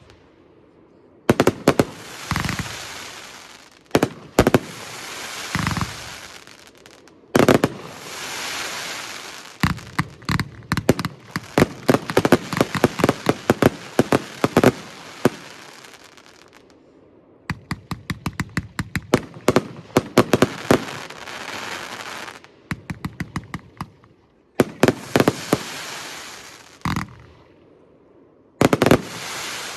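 The Riakeo/Röder "Vollrausch" 30 mm firework compound firing: salvos of rapid launch thumps and aerial bursts with crackling, hissing tails. The salvos are broken by short lulls, and the fastest stretches run at about five or six shots a second.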